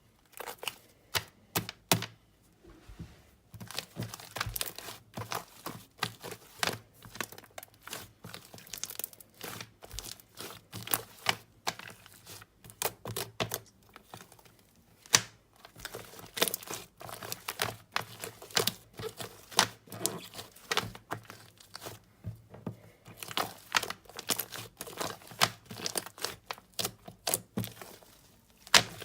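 Slime being squeezed and worked by hand, giving a dense, irregular run of crackling pops and clicks, with a few brief pauses.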